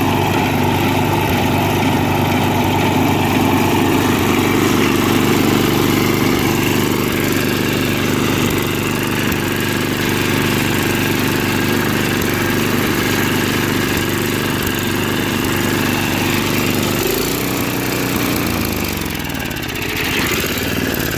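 Small engine of an old Craftsman snowblower running steadily and smoothly, its once-seized engine now freed. About seventeen seconds in the engine speed shifts, dropping and then picking up again.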